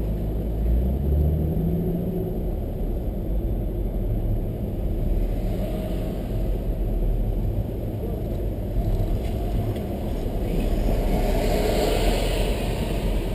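Inside a moving car's cabin: steady low rumble of the engine and tyres on the road, with a louder swell of hiss near the end.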